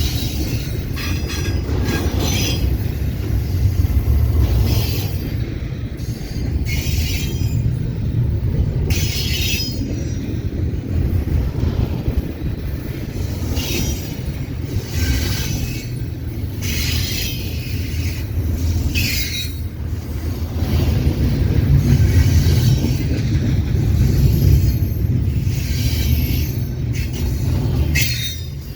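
Freight train cars rolling past with a steady low rumble. Short high-pitched wheel squeals recur every second or two.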